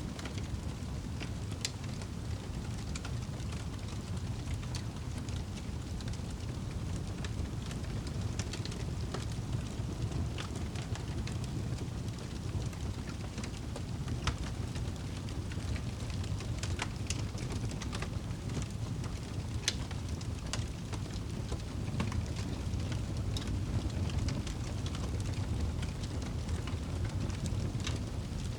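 Wood fire burning in a fireplace: a steady low rumble of the flames with frequent sharp crackles and pops of the burning logs.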